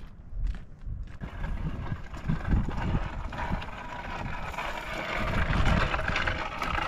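Strong wind buffeting the microphone in gusts: a rushing noise with low rumbling surges that swells about a second in.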